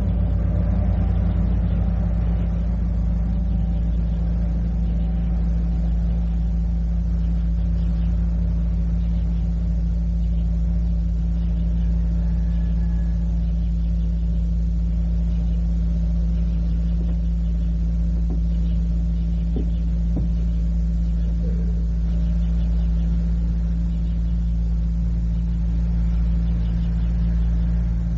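Steady low hum and rumble on an old cassette recording, with a few faint clicks about two-thirds of the way through.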